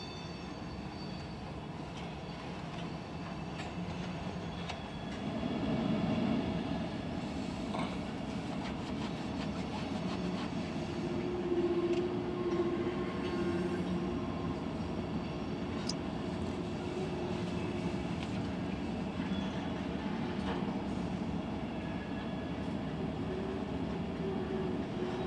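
Freight train of covered hopper cars rolling past at a grade crossing: a steady rumble of steel wheels on rail, with a few sharp clicks. A faint wheel squeal comes in around the middle and again near the end.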